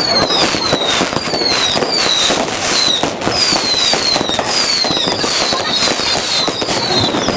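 Fireworks going off: a run of high whistles, each falling in pitch, about two a second, over constant sharp pops and crackling.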